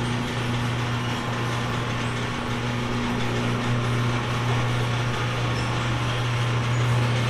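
A machine running steadily, with a constant low hum over an even hiss.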